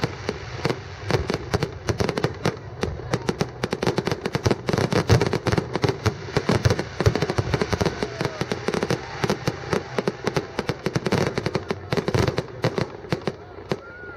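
Fireworks display: a dense, continuous run of bangs and crackles from many shells bursting, several a second.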